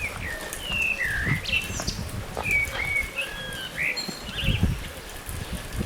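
A songbird calling a quick series of short whistled chirps, some rising and some falling, over an uneven low rumble.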